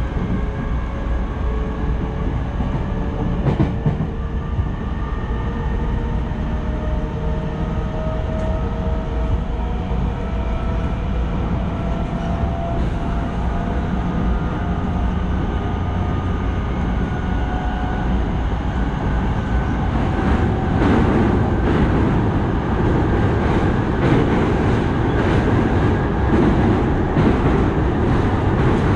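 Electric commuter train heard from inside the car: a steady rumble of wheels on rail, with the motor whine rising in pitch as the train gathers speed. From about two-thirds of the way through, the rumble grows louder and rougher, with rapid clacks as the train runs onto a steel truss bridge.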